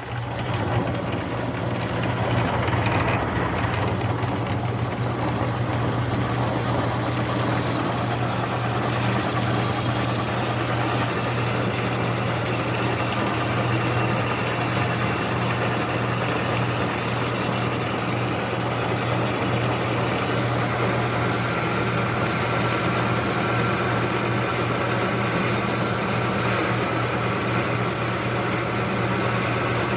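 Metal lathe running steadily at speed with an even motor and drive hum, taking a hand-fed roughing cut on the workpiece.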